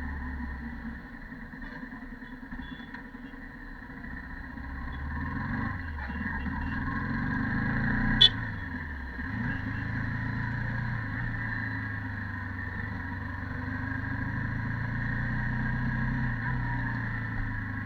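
Yamaha R15 Version 2.0's single-cylinder engine through its stock exhaust, riding along: the note climbs for a few seconds as it accelerates. A sharp click comes about eight seconds in, the engine note dips just after it, and then it runs steadily.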